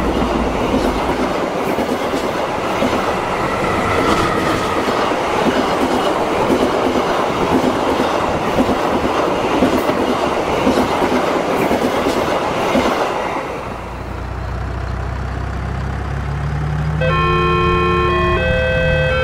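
A train passing at speed, with a dense rumble and wheels clattering over the rail joints. About two-thirds of the way through, the rumble drops away to a lower, steady engine drone. Near the end, a sequence of clear electronic tones stepping between pitches starts.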